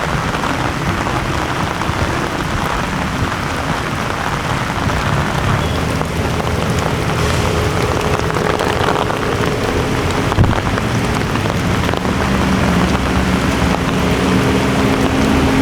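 Heavy rain falling steadily, with a vehicle engine's low hum growing in the second half and a single knock about ten seconds in.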